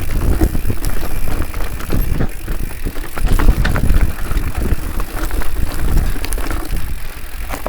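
Mountain bike being ridden over rough ground, with wind buffeting the microphone in a heavy low rumble and frequent small rattles and knocks from the bike.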